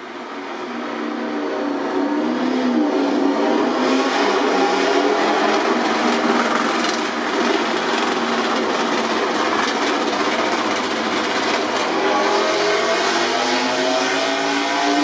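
MotoGP racing motorcycle engines at high revs, growing loud over the first two seconds and staying loud, with the pitch rising again near the end as they accelerate.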